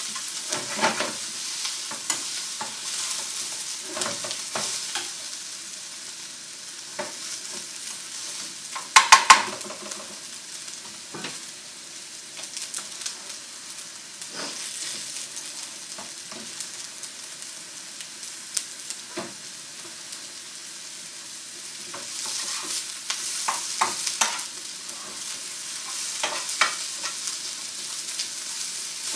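Square sausages and chopped onions frying in pans with a steady sizzle, while a utensil scrapes and taps against the onion pan as the onions are stirred. A burst of sharp knocks about nine seconds in, and a run of clicks and scrapes near the end.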